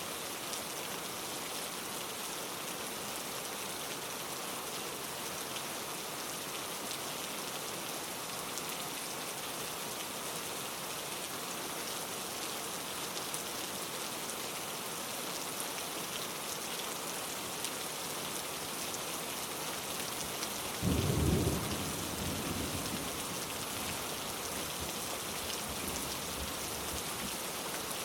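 Steady rain falling, an even hiss. About two-thirds of the way through, a short, low rumble of thunder lasts a second or two.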